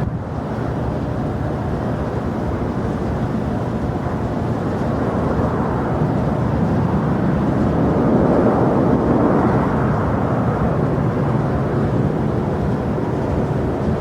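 Jet airliner engine noise, a broad rushing sound that swells to its loudest about eight to nine seconds in and then eases a little.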